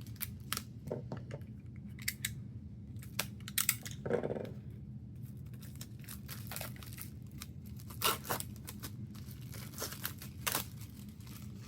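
Album packaging being handled and opened: irregular crinkling and tearing of plastic and paper, with scattered sharp crackles and clicks.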